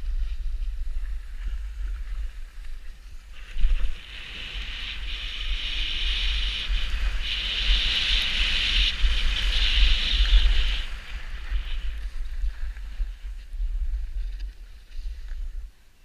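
Wind rumbling on the microphone throughout, with a loud hiss of sliding over snow starting suddenly about three seconds in and running until about eleven seconds.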